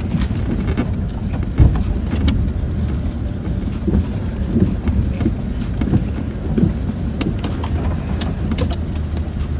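Land Rover Discovery 4 heard from inside the cabin, driving slowly along a rough off-road track: a steady low rumble from the engine and tyres, with frequent knocks and rattles from the body and suspension, the sharpest about one and a half seconds in.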